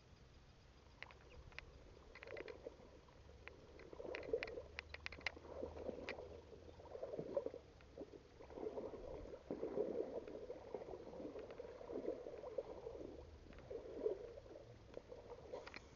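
Faint water sloshing and splashing in irregular swells, one every second or two, with scattered light clicks, mostly in the first half.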